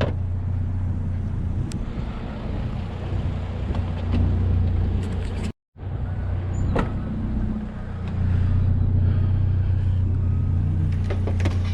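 Motor vehicle driving: a steady low engine drone with road noise, broken by a sudden brief gap of silence about halfway through.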